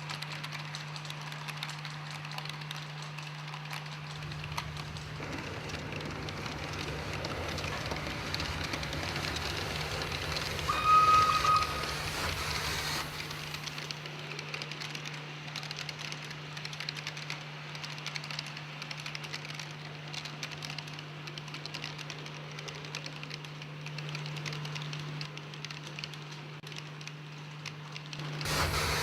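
Model train running on a miniature layout: a steady low hum with dense fine clicking of the wheels on the track and a rumble that swells and fades as it passes. About eleven seconds in, a short high whistle toot.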